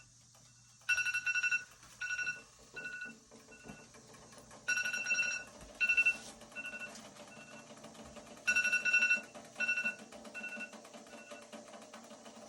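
Digital timer beeping in repeated rounds, each a quick run of beeps followed by three slower, fainter beeps, coming about every four seconds. It signals that the seven-minute sublimation time is up.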